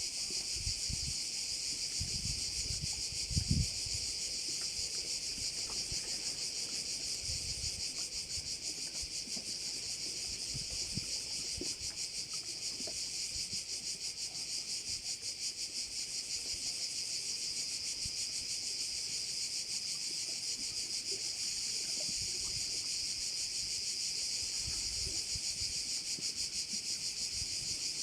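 A chorus of cicadas singing steadily: a dense, high-pitched buzz with a fast pulsing texture that never lets up.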